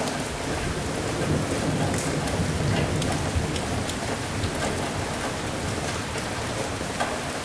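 Steady heavy rain with scattered drop ticks, and a low rumble of thunder that swells about a second in and fades out after a few seconds.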